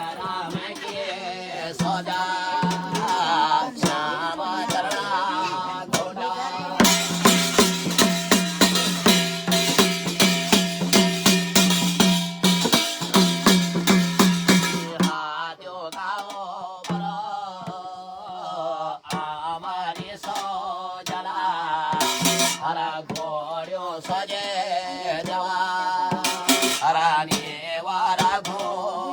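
Garhwali jagar devotional folk music: a male voice singing over steady held tones with drum accompaniment. About a quarter of the way in comes an instrumental passage of even, repeated drum strokes lasting about eight seconds, and then the singing returns.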